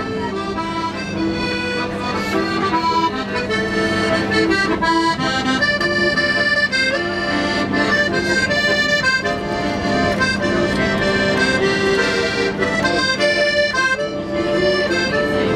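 Accordion playing a melody over a steady held bass note.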